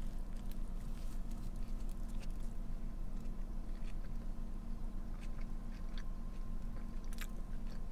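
Close-up chewing of a mouthful of soft-bread cheesesteak, with small wet mouth clicks, over a steady low hum.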